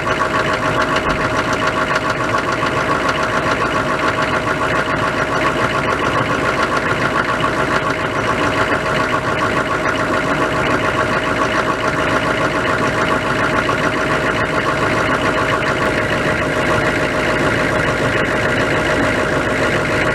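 A cold 1998 Chevrolet K1500's 6.5-litre V8 turbodiesel idling steadily, with no revving. A steady whine sits over the engine note.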